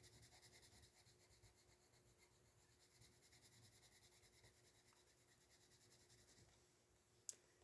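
Faint scratching of a coloured pencil stroked quickly back and forth on paper, stopping about six and a half seconds in. A single short click follows near the end.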